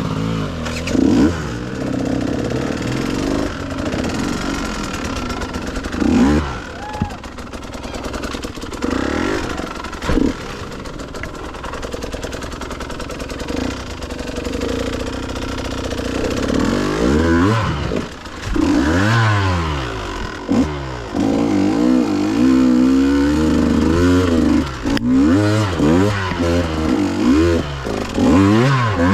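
Dirt bike engine revving under load over rough off-road ground, its pitch repeatedly rising and falling as the throttle is worked, with the swings most frequent in the second half.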